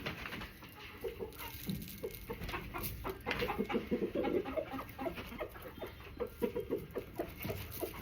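Backyard hens clucking, a run of short low clucks that gets busier in the middle.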